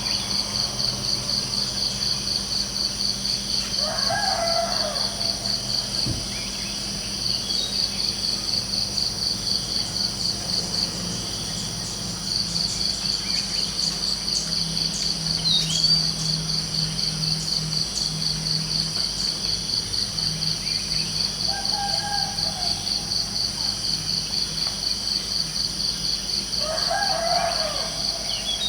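Crickets chirping in a steady, rapid pulsing trill, pausing briefly twice. A rooster crows about four seconds in and again near the end, with a shorter fowl call in between, over a low steady hum.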